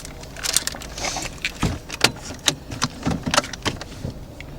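A quick, irregular run of sharp clicks, knocks and light rattles, about a dozen in a few seconds, from things being handled.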